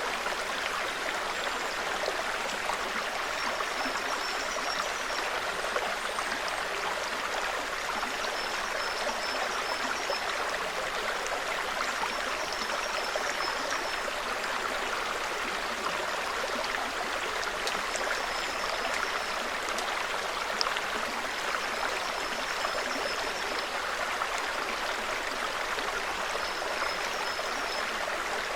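Small forest stream babbling and trickling steadily over stones. A high, short bird call repeats every few seconds above the water.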